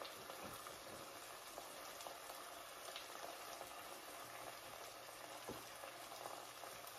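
Faint, steady sizzle of onions frying in a skillet over medium heat, with a few soft strokes of a serrated knife sawing through soft bread rolls.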